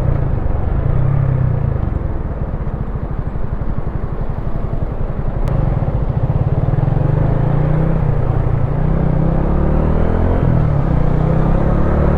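Wolf Classic 125cc motorcycle engine running under way. It drops to low revs with separate firing pulses a couple of seconds in, then pulls up again, the pitch rising and falling with throttle and gear changes.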